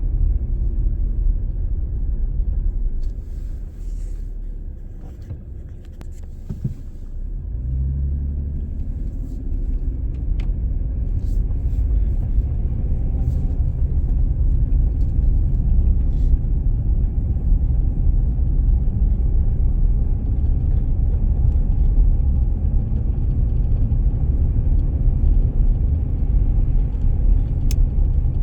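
Car driving, a steady low rumble of engine and tyres on the road. It eases off a few seconds in, then builds up again and holds steady.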